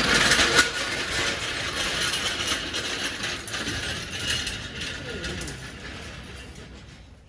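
Rapid mechanical clicking and rattling from a ratchet-type mechanism, loudest at first and fading away steadily over several seconds.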